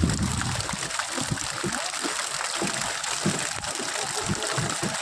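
Water splashing and trickling, with many small irregular splashes over a steady watery hiss.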